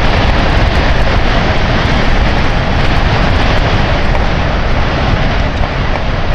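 Yamaha RX135 two-stroke single-cylinder motorcycle with an altered muffler running at speed on the road, its exhaust mixed with heavy wind buffeting on the microphone.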